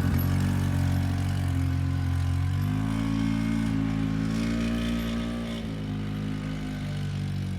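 An engine running steadily, its pitch stepping up about three seconds in and dropping back a few seconds later.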